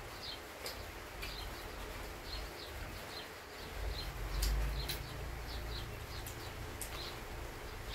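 Small birds chirping over and over in the background, with a few faint clicks and a low rumble that swells about four seconds in.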